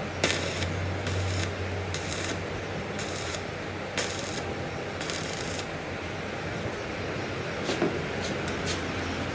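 Metalworking shop noise: a steady machine hum with six short hissing, scraping strokes about once a second, followed by a few sharp clicks near the end.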